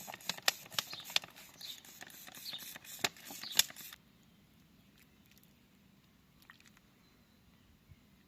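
Sharp clicks, taps and scraping from handwork on a silicone brick mould, stopping abruptly about four seconds in; after that only faint, scattered ticks.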